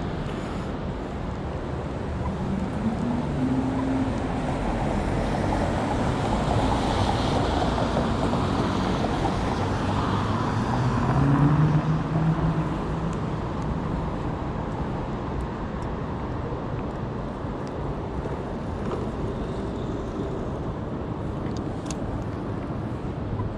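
City street traffic: passing vehicles whose engine hum rises and falls over a steady roadway din, loudest a little before halfway through. A few sharp clicks sound near the end.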